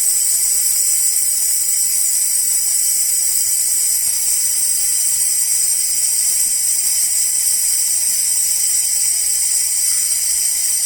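Klarstein Espressionata Gusto espresso machine venting steam with the steaming button still on, a steady hiss. The steam is let off to bring the boiler pressure down from steaming level to the right pressure for espresso.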